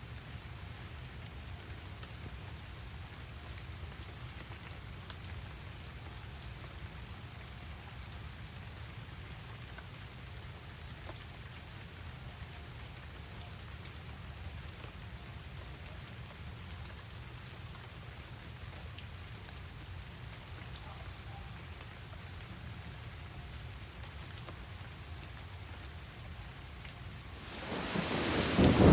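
Steady, fairly soft rain falling, with scattered drops ticking. Near the end a loud rumble of thunder comes in, heavy and low.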